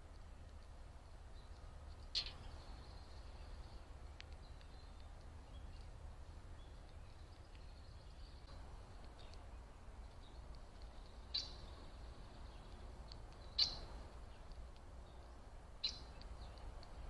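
A small bird giving short, sharp chip calls: four clear ones spaced irregularly several seconds apart, with a few fainter chips between, over a faint steady low rumble.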